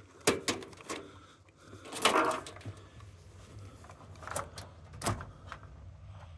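Scattered clicks and knocks of plastic and metal washing-machine parts being handled during a teardown, with a louder clatter about two seconds in.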